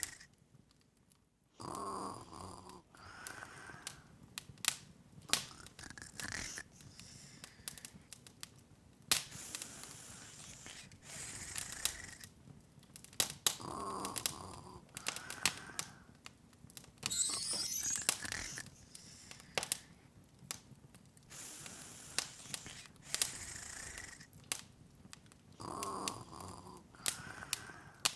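Open wood fire crackling, with irregular sharp pops and snaps. A soft snore-like sound recurs about every twelve seconds, and a short rising sparkly chime sounds a little past the middle.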